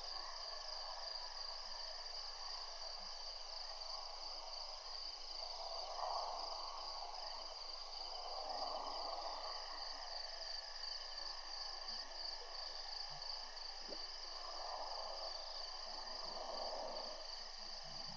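Nighttime insect chorus in the bush, a steady high trilling, with a few soft rustling swells coming and going.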